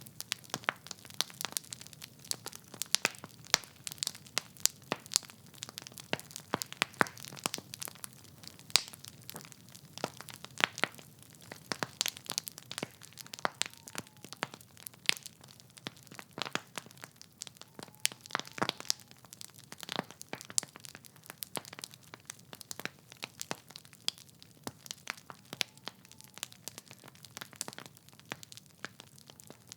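Wood fire crackling in a fireplace: burning logs give off irregular sharp pops and snaps, several a second, over a soft low hiss of flame.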